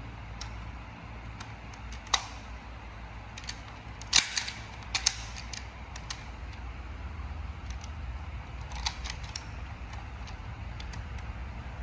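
Sharp plastic clicks and snaps from a toy airplane being handled and worked, a few single clicks and a loudest cluster about four to five seconds in, over a steady low hum.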